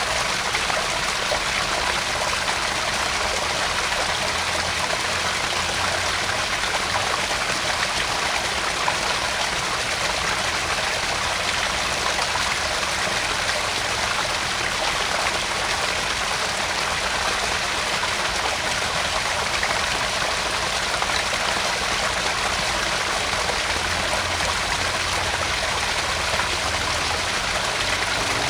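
Small garden pond waterfall: water splashing and trickling steadily into the pond.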